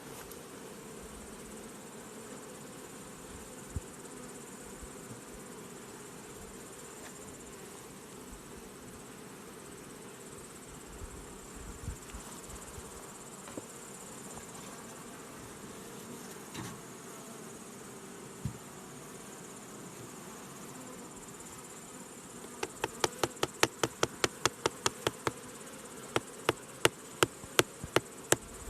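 Honeybee colony humming steadily. Near the end, two quick runs of sharp knocks, about four a second, are struck to test the bees' reaction.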